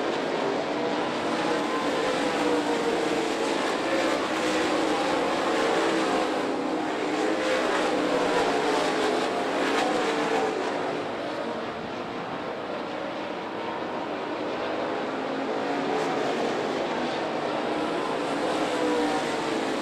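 Dirt late model race cars' V8 engines running at speed around the track, several engines at once, their pitch rising and falling as they come and go; slightly softer for a few seconds past the middle.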